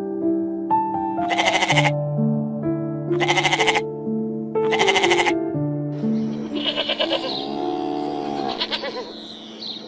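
Several short, quavering bleats, about one every second and a half, over gentle background music with long held notes.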